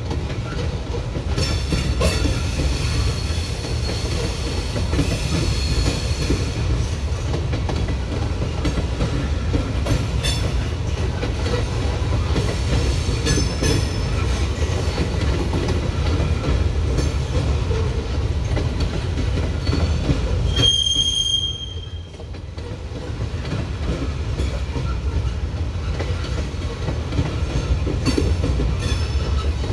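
Freight train rolling past, a steady rumble with wheels clicking over rail joints and faint squeals throughout. About two-thirds through, one short, sharp wheel squeal, then the sound briefly drops away.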